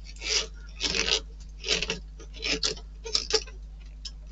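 A series of short clicks and scrapes, roughly one a second and sometimes doubled, from small model-kit parts being handled and fitted, over a faint steady electrical hum.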